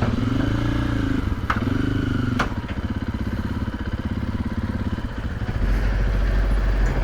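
Single-cylinder four-stroke KTM 500 EXC dirt bike engine running, its pitch rising and falling twice in the first two seconds as the throttle is worked, with two sharp clicks. A deep steady hum joins about five and a half seconds in.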